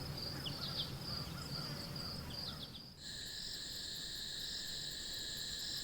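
Steady insect chorus of crickets trilling. About three seconds in it changes abruptly to a different chorus holding several steady pitches at once.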